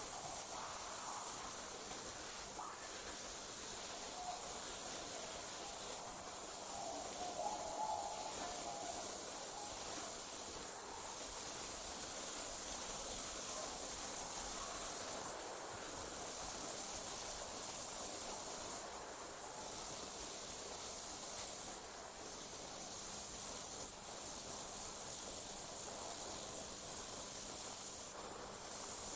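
Crickets trilling in a continuous high-pitched chorus that breaks off briefly every few seconds.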